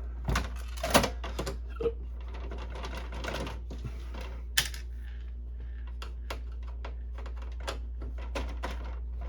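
Irregular plastic clicks and snaps from the printer's clipped-together casing being handled and pried apart, the sharpest about a second in and at about four and a half seconds. Under it runs a steady low hum from a dehumidifier.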